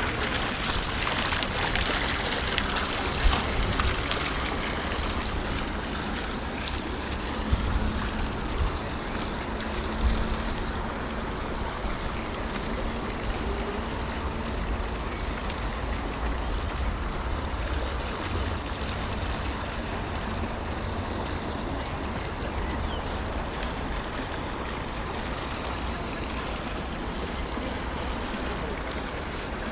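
Steady outdoor ambience: an even rushing noise with a low rumble, broken by a few soft thumps about three, seven and ten seconds in.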